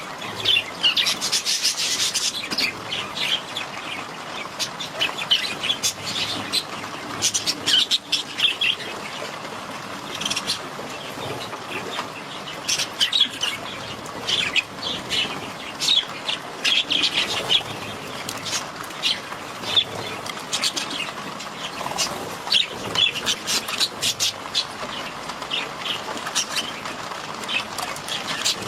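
Budgerigars chirping and chattering without pause, many short high chirps overlapping.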